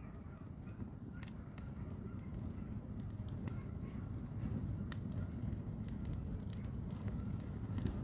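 Campfire crackling, with sharp pops scattered throughout over a low rumble that grows a little louder about halfway through. Faint wavering calls can be heard in the background.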